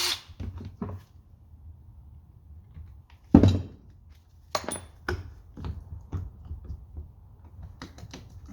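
Scattered metal clunks and clinks of hand tools and tractor parts being handled, with one sharp knock about three seconds in, louder than the rest.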